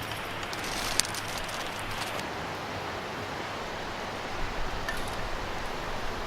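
Open wood campfire crackling, with scattered sharp pops, the loudest about a second in, over a steady rushing noise.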